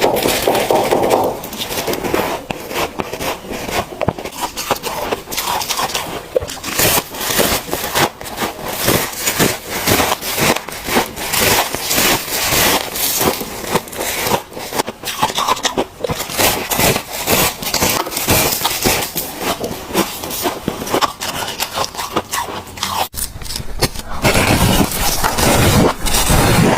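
Freezer frost being bitten and chewed close to the microphone: a dense, continuous run of crisp crunches and squeaks.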